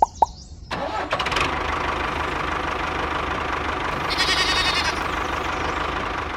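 An engine starting up about a second in and then running steadily.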